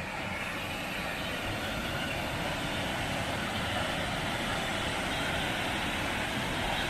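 Steady roar of a large waterfall, slowly growing a little louder.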